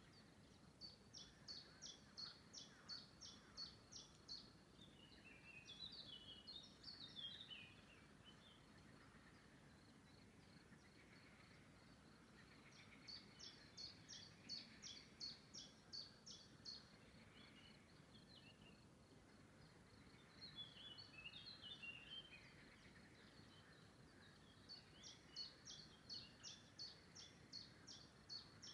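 A songbird singing three times, about twelve seconds apart: each phrase a run of about ten quick, high, evenly spaced notes, followed by a short series of lower tumbling notes. A faint steady outdoor hiss lies underneath.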